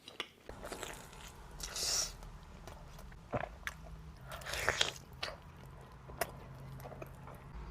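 Close-miked eating of pizza: bites and chewing with a crisp crunch, loudest in two stretches about two seconds in and just before five seconds in.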